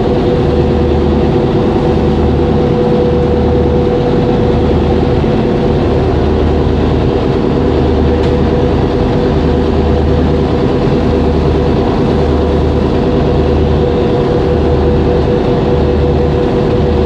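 Boat engine running steadily, heard on board: a constant hum with a low throb pulsing about once a second.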